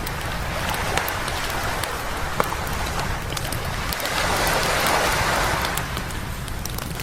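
Sea waves breaking and washing up a beach, with a larger surge about four to five seconds in. Scattered sharp crackles and pops come from a wood campfire.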